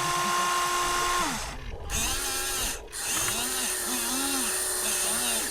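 Small electric motors and gear trains of radio-controlled toy construction machines whining. A steady whine cuts off about a second and a half in, then comes back as a string of short whines that rise and fall in pitch as the motors start and stop.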